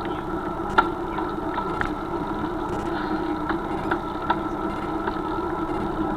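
Steady motor hum with a few scattered sharp ticks, the loudest about a second in.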